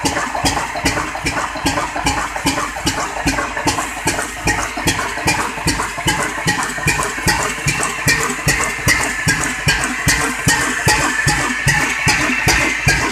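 Kala 22 HP desi diesel oil engine running steadily at slow speed, rated at about 275 rpm, giving an even beat of about four to five knocks a second over a constant hiss.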